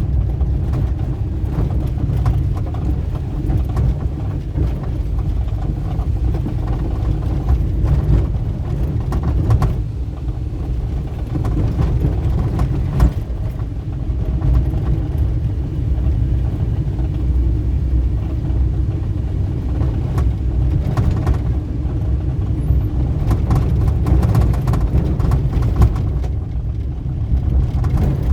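Vehicle on the move: a steady low rumble of engine and road noise, with a few light clicks and knocks.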